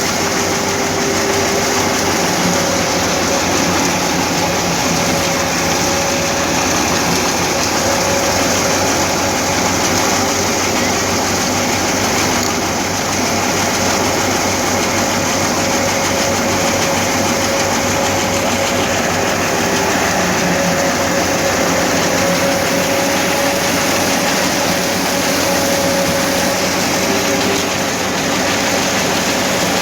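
Tractor-driven wheat thresher running steadily, the tractor engine and the threshing machinery making one continuous loud clatter with a constant steady hum running through it.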